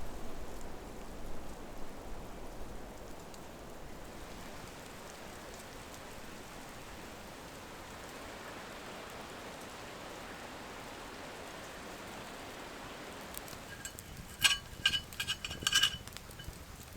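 A steady hissing noise, then a quick run of ringing clinks about two seconds before the end.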